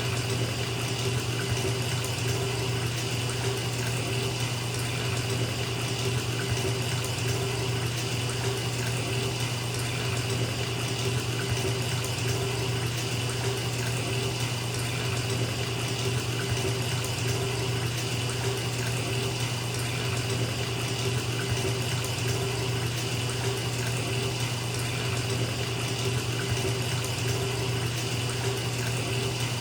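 Bathtub tap running steadily into a filling tub: an even, unbroken rush of water.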